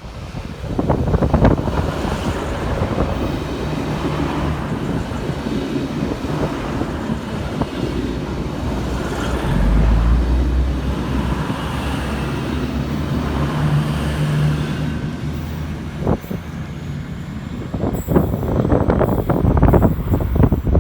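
Wind buffeting the microphone over a low, steady engine-like hum that swells about ten seconds in, with a few scattered knocks near the end.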